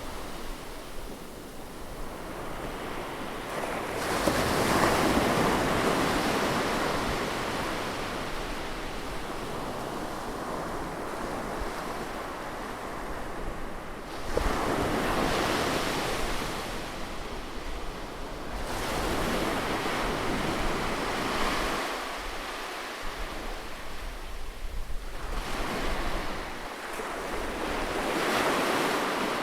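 Ocean surf: waves breaking and washing up a beach in repeated swells. The biggest surge starts about four seconds in, another breaks sharply around the middle, and smaller ones follow toward the end.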